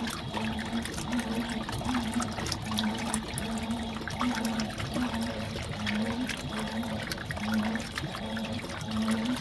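Fisher & Paykel Smart Drive top-loading washing machine (MW059) running with water in the tub: steady swishing and trickling of water, with a low motor hum that comes and goes about twice a second.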